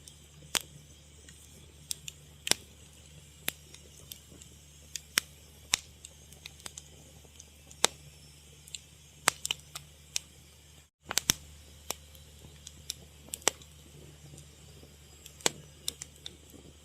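Fire crackling: irregular sharp pops, one or two a second, over a faint low steady hum. The sound cuts out for an instant about eleven seconds in.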